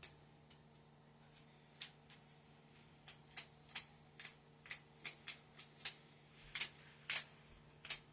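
Plastic clicks of a Rubik's Snake's segments being twisted: sharp, irregular clicks, a few at first and then about two a second, over a faint steady low hum.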